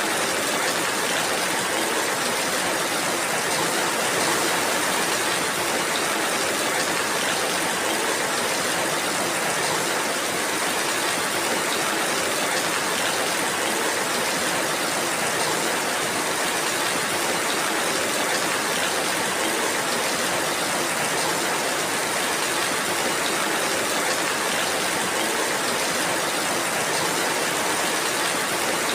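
Steady rainfall, an even hiss of drops with no let-up or change in strength.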